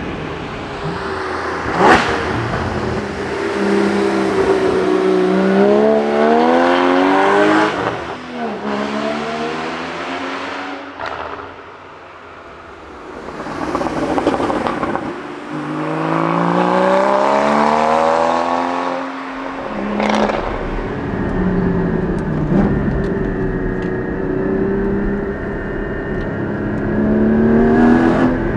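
Porsche 981 Cayman GT4's naturally aspirated 3.8-litre flat-six with sports exhaust, pulling hard twice with the revs climbing steadily, each time dropping off sharply as the throttle is lifted. About a third of the way in it goes quieter, off the throttle, before the second pull. The rest is lighter running with short rises and falls in revs and a few sharp cracks.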